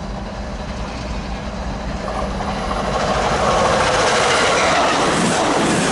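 Amtrak Pacific Surfliner passenger train passing, its wheels running on the rails, getting louder about three seconds in as it draws level.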